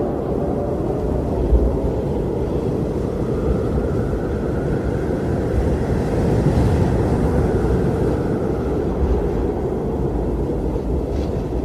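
Strong wind blowing: a steady low rushing rumble, with a higher howl that swells in the middle and fades again.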